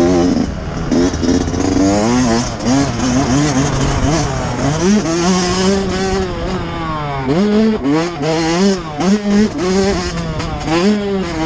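Yamaha YZ125 two-stroke single-cylinder motocross engine revving hard under racing throttle, its pitch rising and falling over and over. It holds a long high rev in the middle, then drops sharply and goes into quick short rises and falls near the end.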